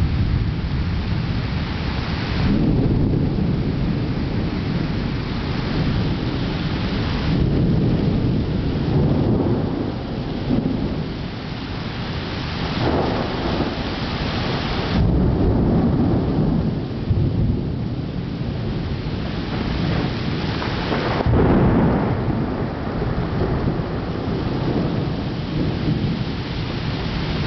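Thunderstorm: heavy rain falling steadily, with several long, low rolls of thunder swelling and fading through it.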